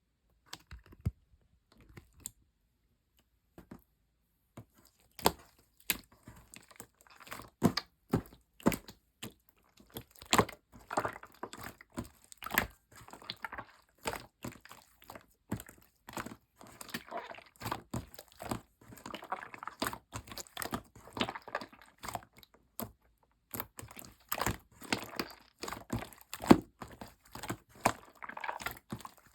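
Hands playing with slime, sky-blue clear slime and yellow clay, making sticky clicks, small pops and crackling squelches. Sparse for the first few seconds, then dense and continuous.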